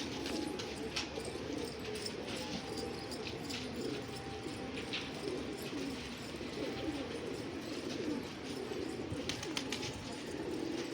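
Several pigeons cooing continuously, their low calls overlapping one another, with scattered faint small clicks.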